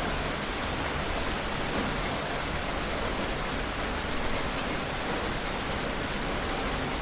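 Heavy rain falling steadily: a dense, even hiss with faint ticks of individual drops and no thunder.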